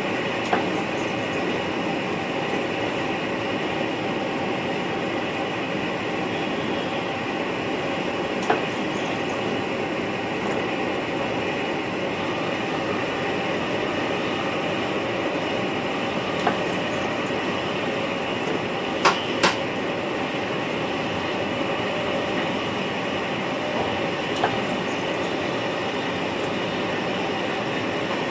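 Steady running noise inside the driver's cab of an NS VIRM double-deck electric train on the move. A few sharp clicks or knocks cut through it, two of them close together about two-thirds of the way through.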